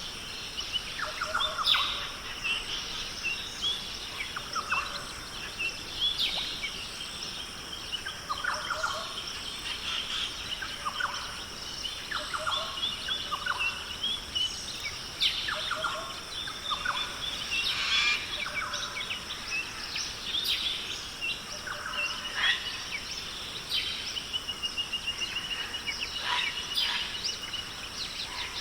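Australian rainforest ambience: many birds calling in overlapping short notes and sweeps, with a rapid even trill about three quarters of the way through, over a steady high-pitched hiss.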